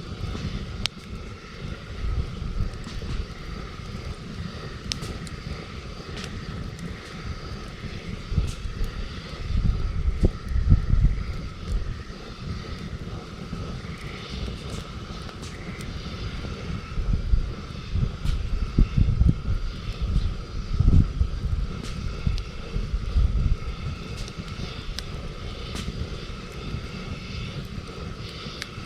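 Campfire crackling with scattered sharp pops, over a low, uneven rumble that swells twice, about a third of the way in and again about two thirds through.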